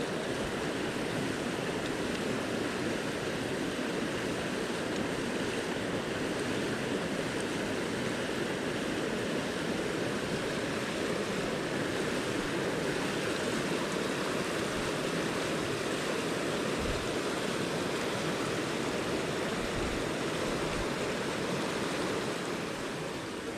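Mountain stream water rushing over rocks: a steady, even wash of running water.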